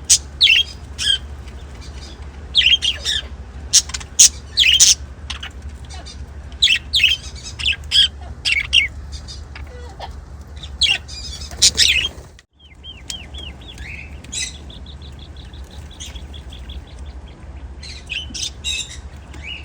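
A group of budgerigars chirping and chattering, with short, sharp calls coming thickly for the first twelve seconds. After that it is quieter, with a fast run of ticking notes and a few more chirps near the end, over a steady low hum.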